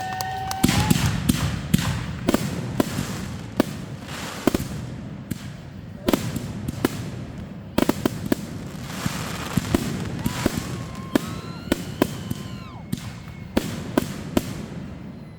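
Fireworks going off in quick, irregular succession: many sharp bangs and pops over continuous crackling.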